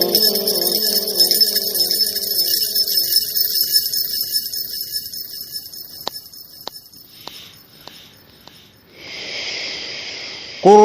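A male Quran reciter's held last note dies away in a long echo over the first few seconds, leaving faint clicks and then a soft hiss before his voice comes back at the very end.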